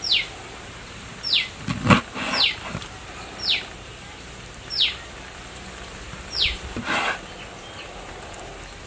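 A bird calling over and over, a short whistle sliding down in pitch, six times at roughly one-second intervals. Two sharp knocks of a knife striking a wooden chopping board, the louder about two seconds in and another near the end.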